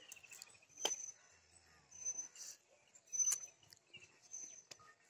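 Faint outdoor ambience: a few short, high bird chirps, with a handful of faint clicks.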